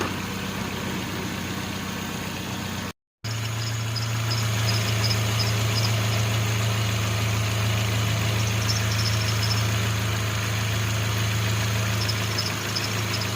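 Car engine idling steadily, a low even hum. It cuts out for a moment about three seconds in and resumes louder, with faint short high-pitched chirps coming and going over it.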